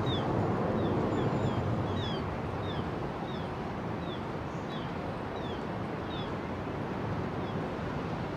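Jet engine rumble of a four-engine Boeing 747 freighter on short final for landing, loudest in the first two seconds and then easing a little. Over it, a small bird chirps in a steady series of short, high, falling notes about twice a second.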